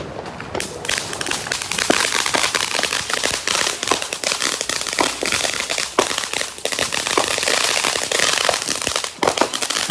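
Consumer fireworks going off in a dense, rapid crackle of many sharp pops. It builds from scattered pops to a continuous crackle about a second and a half in, then cuts off suddenly near the end.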